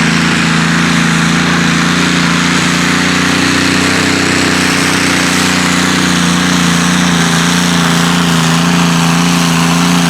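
Turbocharged, methane-fuelled Continental V12 engine of a pulling tractor, running loud at steady revs.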